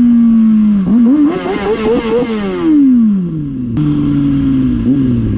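Motorcycle engine holding a steady note, then revving up unevenly and dropping back down. The sound cuts off abruptly near the end and the engine picks up again running steadily.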